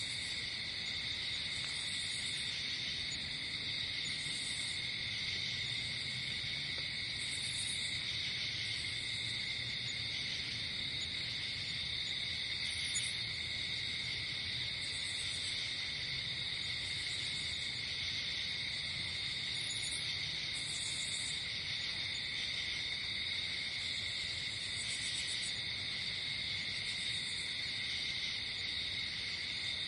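Night insect chorus of crickets: a steady, unbroken high trilling, with short, higher buzzy trills from other insects repeating every second or two.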